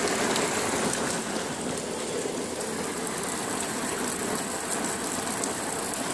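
Steady rain and runoff: water falling and splashing onto hail-covered flat roofs and pouring off a roof edge, with faint scattered drop ticks.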